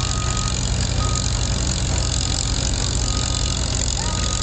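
Tractor engine idling steadily. A short high-pitched tone sounds on and off, about once a second.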